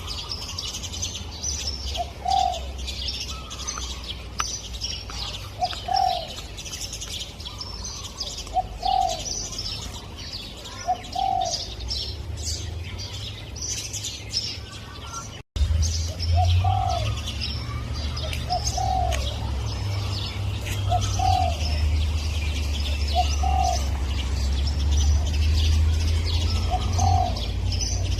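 Spotted dove cooing: short arched notes repeated every two to three seconds, over a dense chatter of high chirping from smaller birds and a steady low rumble. The sound drops out for an instant just past halfway, where two recordings are joined.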